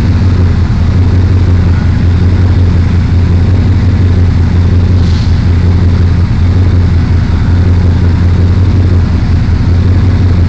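Supercharged 5.4-litre V8 of a 2002 Ford F-150 SVT Lightning, fitted with custom-grind camshafts, running loud and steady at one constant speed with no revving.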